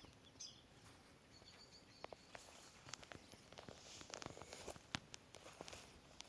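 Quiet outdoor nature ambience: faint scattered clicks and crackles, with a few short high bird chirps in the first second.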